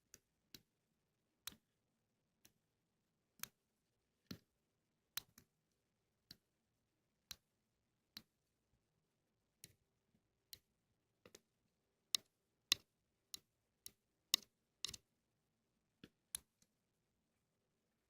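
Ear-cleaning ASMR tool clicking against an ear microphone: short, sharp clicks at an uneven pace of roughly one a second, some in quick pairs, louder in the second half.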